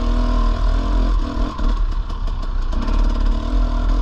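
Dirt bike engine running at a steady, easy road pace, its pitch wavering slightly, over a heavy low rumble of wind on the microphone.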